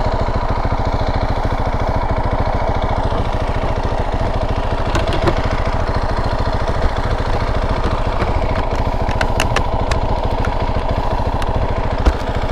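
KTM 690 Enduro R's single-cylinder engine idling steadily, with even firing pulses and no revving. A few light clicks come partway through, and a single thump near the end.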